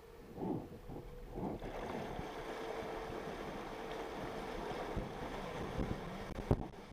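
Jet ski running with a steady hum, over a rush of water and wind on the microphone; the noise swells about two seconds in.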